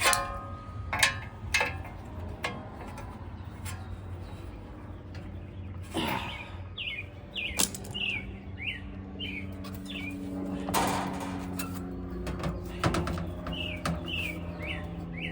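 A bird chirping over and over in short falling notes, about two a second, with a few sharp clicks and knocks scattered through. A low steady hum joins about halfway through.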